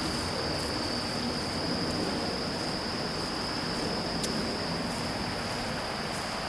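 Steady outdoor ambience: insects shrilling in one constant high-pitched drone over the even rushing of shallow river rapids.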